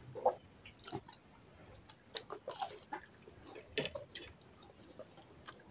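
A person chewing a mouthful of fried samosa: irregular, wet chewing with short crisp clicks and crackles of the pastry.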